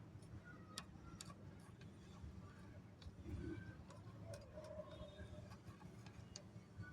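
Faint, scattered light clicks and ticks of small hard snack pieces (mixed namkeen) being picked up and dropped while sorting, at irregular intervals over a low steady hum.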